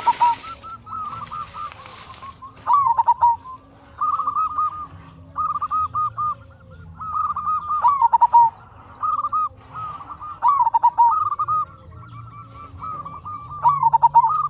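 Zebra dove (perkutut) singing its cooing song over and over: short phrases of quick, bouncing notes, one after another every second or two. A rush of hissing noise sits under the first couple of seconds.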